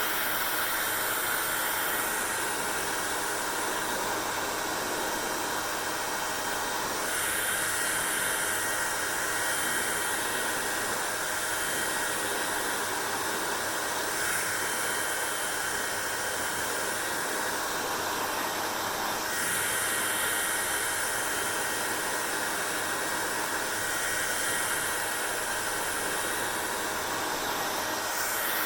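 Hair dryer blowing steadily, a continuous rushing hiss with a faint steady whine. The high part of the hiss brightens and dulls every several seconds, as the air stream shifts.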